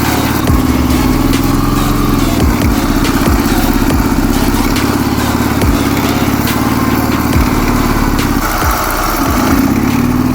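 Ural sidecar motorcycle's flat-twin engine running steadily under load through snow. It eases off briefly near the end and then picks up again, with scattered knocks and thumps over the engine note.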